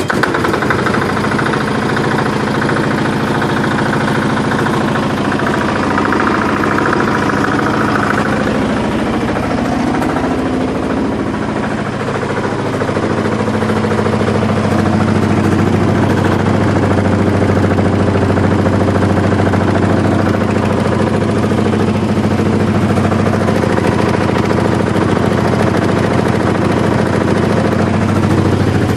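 Diesel engine fitted to a Muravey cargo scooter, running steadily near idle. Its note changes a little around halfway through, settling into a steadier, slightly louder low hum.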